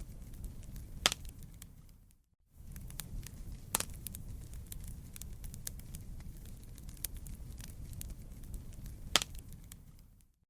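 Wood fire crackling over a low steady rumble, with frequent small snaps and three louder pops: about a second in, near four seconds, and near nine seconds. The sound cuts out briefly about two seconds in, then fades away near the end.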